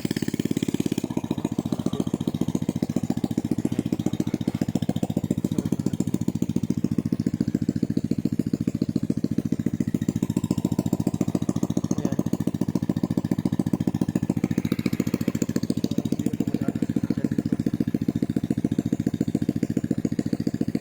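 A small motorcycle engine running steadily, its exhaust beating in a fast, even pulse.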